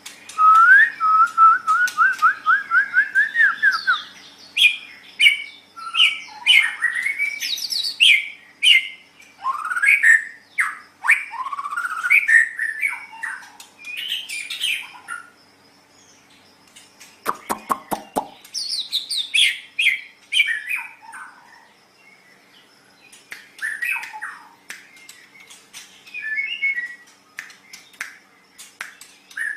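White-rumped shama (murai batu) singing: a fast rising run of repeated notes at the start, then varied whistled phrases with rising and falling glides, a short harsh rattling burst about halfway, and sparser phrases near the end. A faint steady low hum runs underneath.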